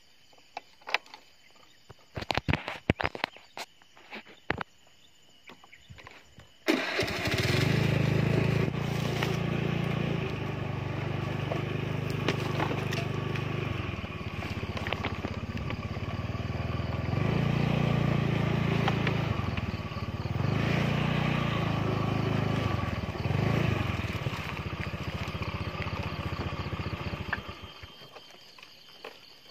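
A small petrol engine starts abruptly about seven seconds in and runs for about twenty seconds, its revs rising and falling several times, then fades away near the end. Before it, only scattered light clicks and rustles.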